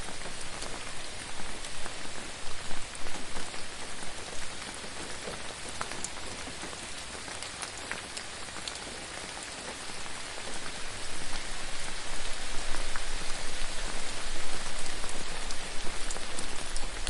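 Gentle rain falling steadily, with scattered single drops ticking through the hiss. It eases a little in the middle and grows heavier again in the second half.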